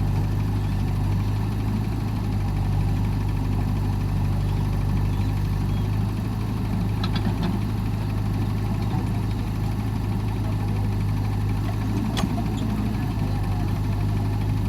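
Large diesel engine of a tractor or earthmover running steadily at low speed, with an even low hum that does not rise or fall. Two brief clicks sound about seven and twelve seconds in.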